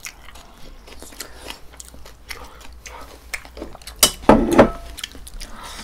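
Close-up chewing and crunching of food, with small wet mouth clicks, and a louder noise about four seconds in.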